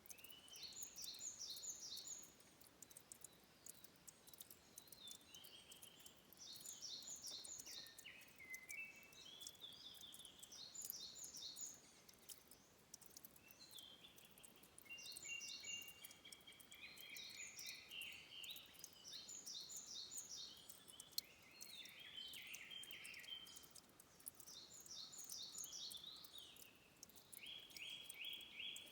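Songbirds singing short, rapid trilled phrases, one every couple of seconds, with two or more birds overlapping through the middle, over a faint background of fine high ticks and hiss.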